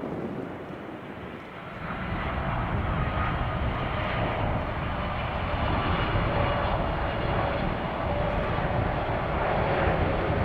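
Jet airliner's engines, growing louder about two seconds in and then holding a steady, loud noise with a faint whine.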